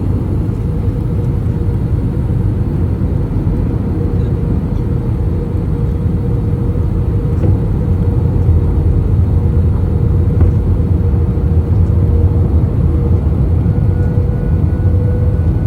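Steady cabin noise of an Airbus A321 on final approach: a deep rumble of airflow and its IAE V2533 turbofan engines, with a steady hum running through it. A faint higher tone comes in near the end.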